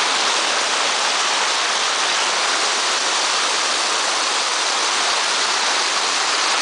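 Fast-flowing river rushing over rocks: a steady, unbroken rush of water.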